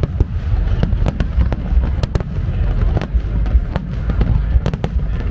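Aerial firework shells bursting in quick succession: many sharp bangs over a continuous deep rumble.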